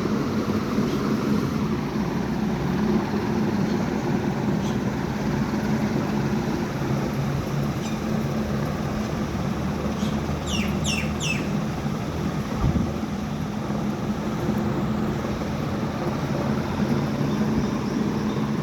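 Steady low motor-like hum, with a bird giving four quick, falling high chirps about ten seconds in.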